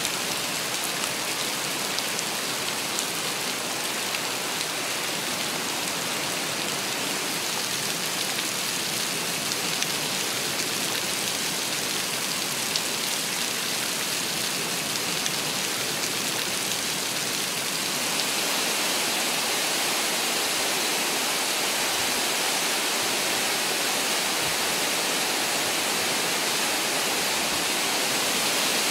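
Steady heavy rainfall, a dense even hiss with scattered drop ticks. About two-thirds of the way through it becomes slightly louder and smoother, more like a continuous rush.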